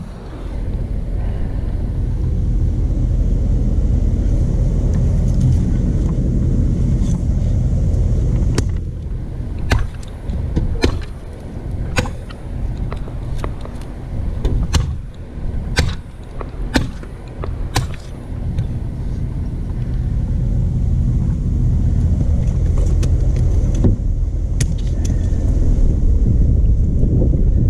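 Stump grinder's 13 HP Honda engine running steadily with a loud low rumble, with a scatter of sharp clicks and knocks through the middle of the stretch.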